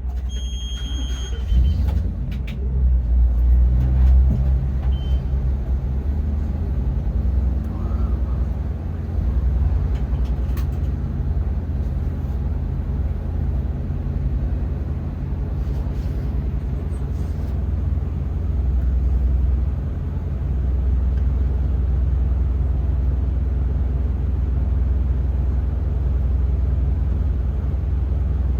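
Ford 7.3-litre V8 engine of a 2023 Blue Bird Vision school bus running, heard from inside the bus as a steady low rumble that swells briefly a couple of seconds in. A short high-pitched beep sounds about a second in.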